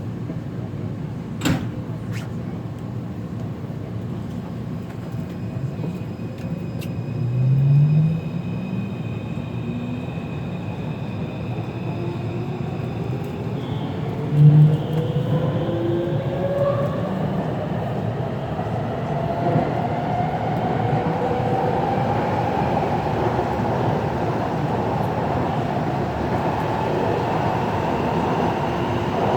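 Taipei Metro C341 train pulling away from a station, heard from inside the car. There is a sharp click early on, then the traction motor whine rises steadily in pitch as the train gathers speed, over a steady rumble of wheels on rail.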